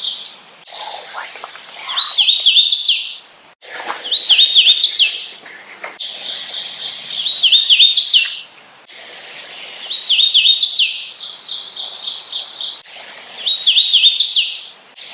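Hooded warbler singing: five songs a few seconds apart, each a quick run of slurred two-part notes ending in a higher, emphatic rising note. Between some songs, a steady run of evenly spaced chirps carries on at about the same pitch.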